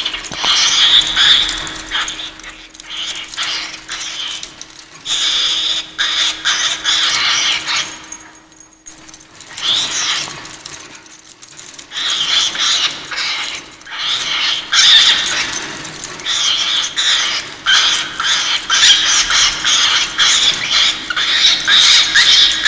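Cockatiel screaming: harsh, high, rapid screeches in bouts a few seconds long, with short lulls between them. It is a pet cockatiel's night-time tantrum.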